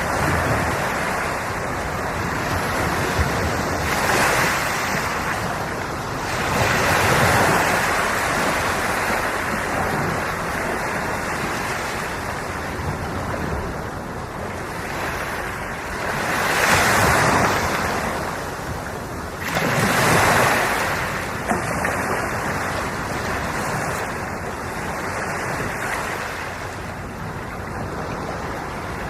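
Sea waves breaking and washing on the shore: a continuous rush of surf that swells louder several times as bigger waves come in.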